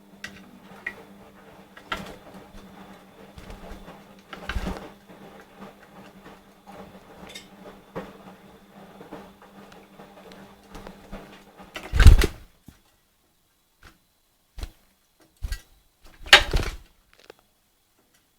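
Rosy-faced lovebird bathing in a water dish: light splashing and pattering, with two louder splashes, the first about twelve seconds in and the second a few seconds later.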